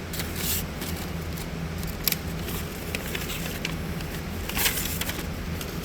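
Scattered rustles and clicks of hands handling the new welding gear, a few seconds apart, over a steady low hum.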